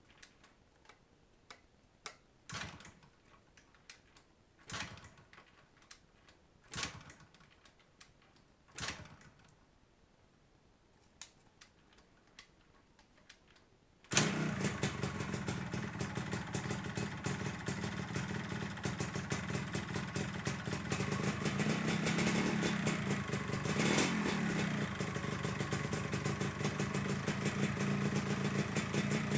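Scattered faint clicks and short whooshes. About halfway through, a Yamaha RXZ 135's single-cylinder two-stroke engine comes in suddenly and runs steadily at a warm-up idle, with one short rev near the end; the owner finds the exhaust leaking.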